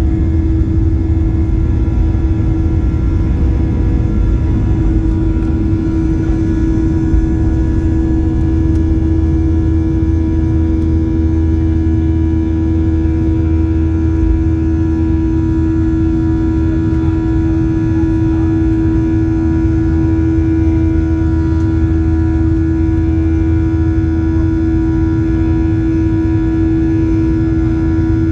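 Boeing 737 jet engines at takeoff thrust, heard from inside the cabin: a steady drone with a strong steady hum over a low rumble.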